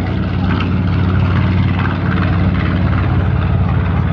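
B-17 Flying Fortress bomber's four radial piston engines droning steadily as it flies over, a loud, even propeller drone with a low pulsing note.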